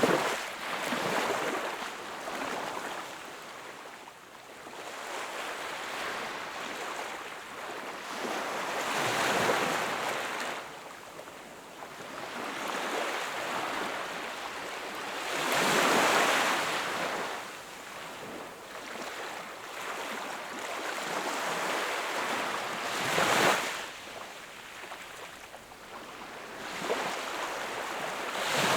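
Sea waves breaking and washing up a shore, a rushing surge every six or seven seconds over a steady wash, the strongest about halfway through and again about two thirds of the way in.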